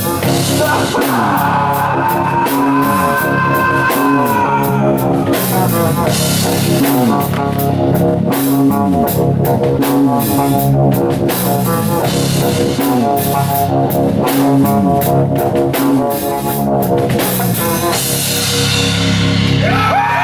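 Live rock band playing an instrumental passage: electric guitar over a full drum kit with a steady beat. A guitar note bends up and back down in the first few seconds, and swooping, ringing guitar tones come in near the end.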